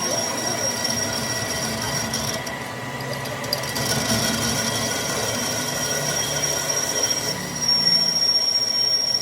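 Metalworking machinery running with a steady, high-pitched squealing whine over a continuous mechanical rumble; the whine dips briefly about two and a half seconds in and grows louder near the end.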